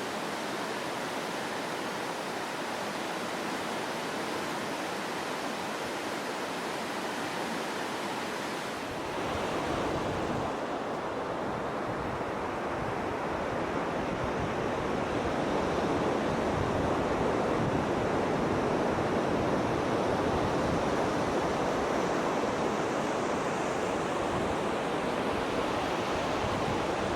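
Steady rush of running water, an even wash of noise that grows deeper and louder about nine seconds in and swells a little more around fifteen seconds.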